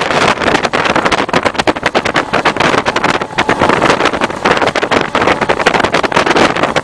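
Diesel-electric multiple unit (DEMU) train running across a river bridge: a loud, steady rush of noise full of rapid, irregular clatter.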